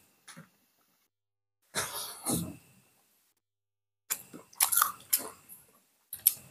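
Close-miked chewing and lip-smacking of people eating boiled pork and rice by hand, in short bouts with wet clicks and smacks, busiest from about four seconds in, and near-silent gaps between.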